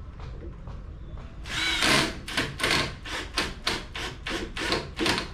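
Hand saw cutting through a wooden board: about a second and a half in, a first long stroke, then a steady run of back-and-forth strokes at about three a second that stops near the end.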